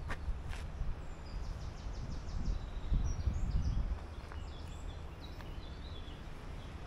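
A small songbird singing in woodland: a quick run of repeated high notes, then a phrase of varied notes. Underneath are a low rumble, heaviest around the middle, and a few footstep-like clicks near the start.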